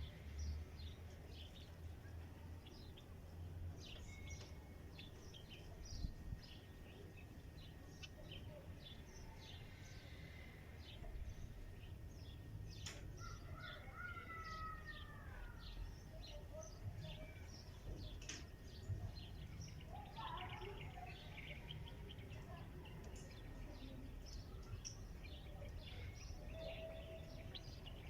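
Small songbirds chirping: many short, high calls overlapping throughout, with a few longer gliding calls around the middle. A steady low background rumble lies underneath.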